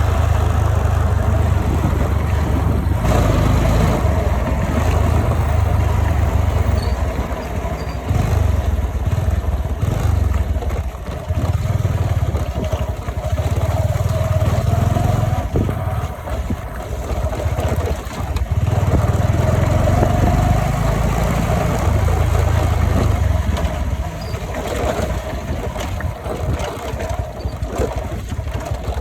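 A vehicle on the move: a steady engine and road rumble with wind noise, the low rumble swelling and easing in long stretches.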